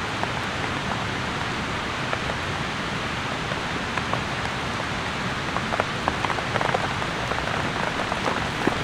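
Steady rain falling, with sharp ticks scattered through it that come more often in the second half.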